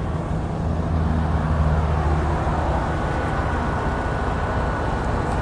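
Steady low engine rumble and road traffic noise, swelling slightly about a second in.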